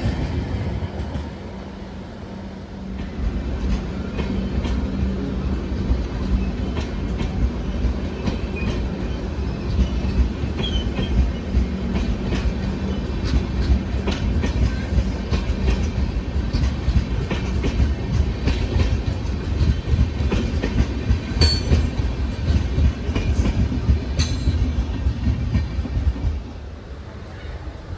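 A train running on the track: a steady low rumble with the wheels clicking over rail joints. A couple of brief high squeaks come in the second half.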